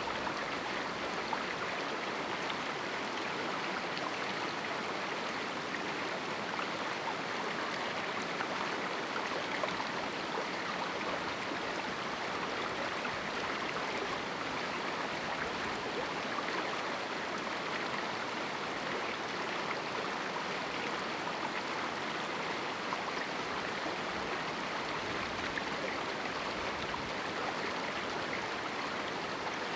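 A small river running through a canyon, a steady rushing of flowing water over rocks.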